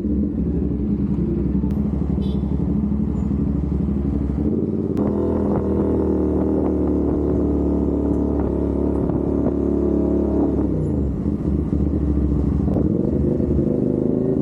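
CFMOTO 450SR parallel-twin motorcycle engine running. Its note steps up about five seconds in, holds, then falls back and settles lower around eleven seconds in.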